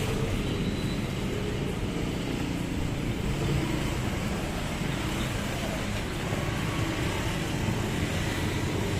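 Truck engine running steadily at low revs, a low even hum with no clear rise or fall.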